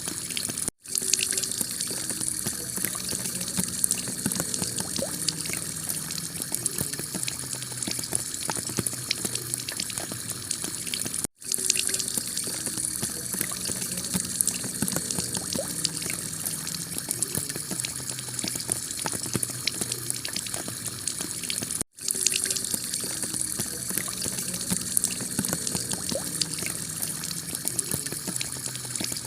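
Heavy rain pouring steadily onto a clay-tiled roof, a dense hiss with fine patter. It cuts out for a split second three times, about ten seconds apart, where the recording loops.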